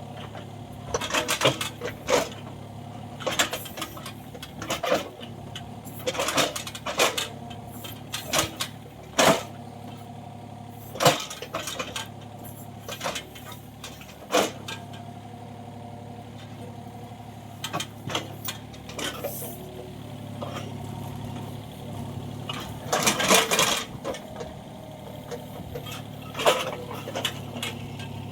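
Kobelco 35 excavator's engine running steadily, with many irregular metallic clanks and knocks over it.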